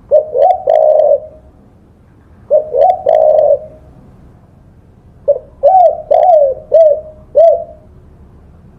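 Spotted dove (tekukur) cooing: two short multi-note coo phrases, then a longer run of about five separate rounded coos.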